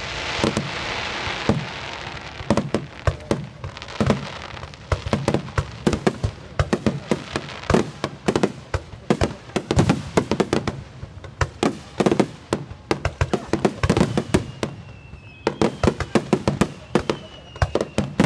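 Fireworks display: a rapid barrage of aerial shell bursts, many sharp bangs in quick succession. A crackling hiss runs through the first couple of seconds, and a faint high whistle is heard near the end.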